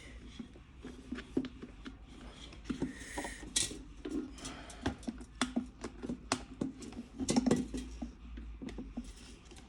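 Irregular small clicks, taps and scrapes of plastic and metal as the switch button of an electric kettle is worked loose, with a denser run of louder clicks about seven seconds in.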